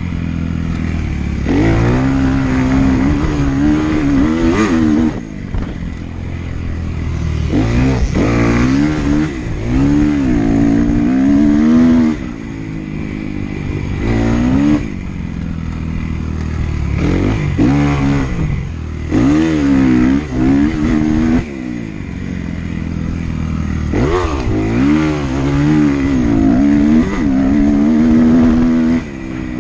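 Motocross dirt bike engine revving hard and easing off again and again, its pitch climbing with each burst of throttle and then falling away, over a steady low rumble of wind and ground noise.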